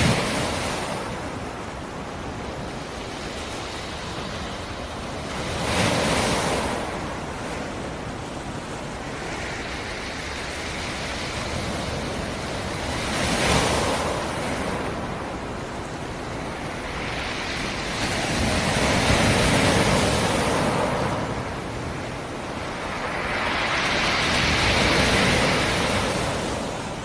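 Black Sea surf: five waves break about every six seconds, each swelling into a rush of foam and washing back, with a steady sea hiss between them. The later breakers are longer.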